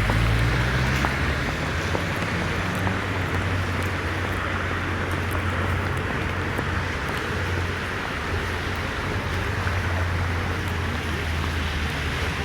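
Steady outdoor noise: a low, even rumble of vehicle engines under a continuous hiss of rain.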